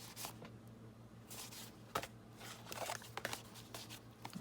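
Paper journal pages being handled and lined up in a stack: faint, scattered rustles with a sharp tap about two seconds in.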